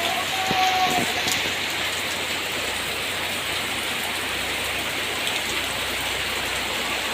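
Steady rain falling on a garden, an even patter of drops on surfaces.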